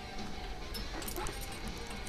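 Pet parrot bathing in a water bowl: light, scattered splashing with a faint short call about a second in.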